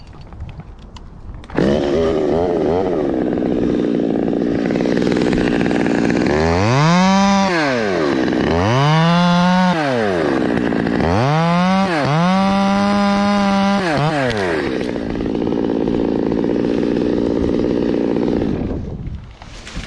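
Stihl MS 200T top-handle two-stroke chainsaw running. It comes in suddenly about a second and a half in and idles, then is revved up and let back down three times, the third held at high revs for about two seconds. It then drops back to idle and stops near the end.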